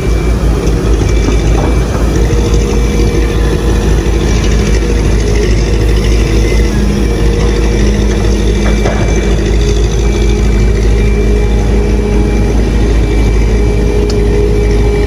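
Doosan DX300 excavator's diesel engine running steadily.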